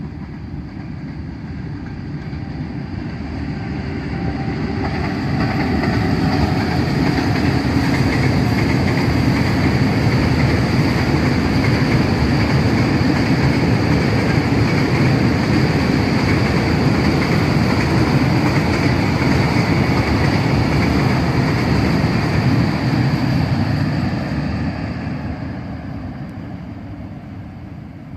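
Freight train passing on the line: wheels rolling on the rails, growing louder over the first several seconds, holding steady as the wagons go by, then fading away over the last few seconds.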